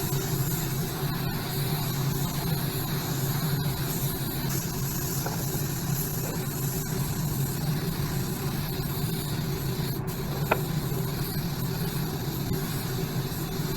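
Primer being sprayed onto bare motorcycle frame parts: a steady hiss of spray over a steady low hum, with one short tick about ten seconds in.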